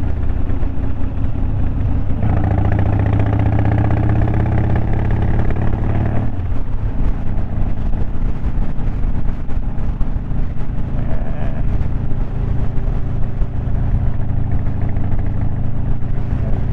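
2001 Harley-Davidson Dyna Wide Glide's Twin Cam 88 V-twin running steadily while riding. About two seconds in it pulls harder, its pitch rising a little, then eases back after about six seconds.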